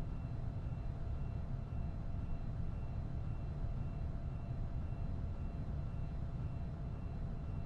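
Steady low airplane engine drone with a faint high whine, unchanging throughout.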